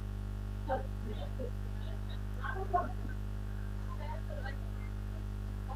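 Steady electrical mains hum on the audio line, with faint scattered brief sounds over it.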